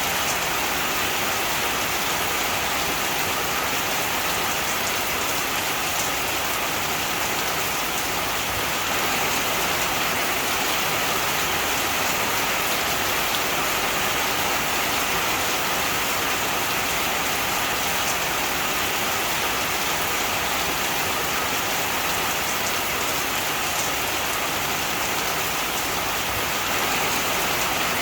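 Heavy rain falling steadily, a dense even hiss of drops on a surface with no thunder.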